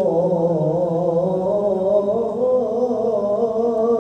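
A muezzin chanting the adhan, drawing out the word 'illa' of the shahada line in a long, wavering, ornamented melisma that settles into a steady held note near the end.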